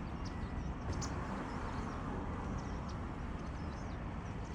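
Many white wagtails calling together at their roost, with short high chirps scattered through. The calls sit over a steady low rumble.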